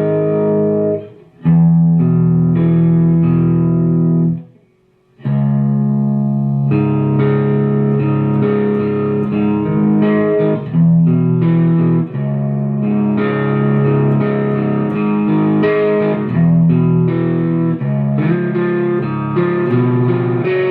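Guitar tuned to drop D a half step down (drop D-flat), playing a riff slowly. Open low strings ring under partial chords barred on the top three strings. The playing breaks briefly about a second in and again near five seconds in.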